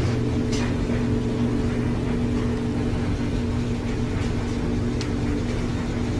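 A steady low mechanical hum that runs unchanged, with a couple of faint clicks.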